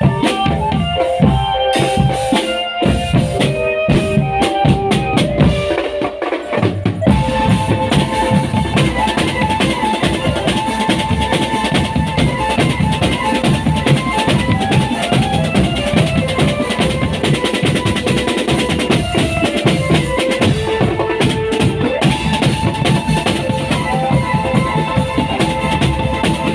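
Marching drum band playing: snare and bass drums under a melody on pitched instruments. The drumming is sparser at first and becomes dense and continuous about seven seconds in.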